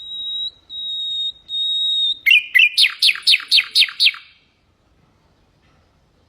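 Common nightingale singing one song phrase: three long, steady, high whistled notes, then a rapid run of about nine descending chirps at about five a second, ending abruptly about four seconds in.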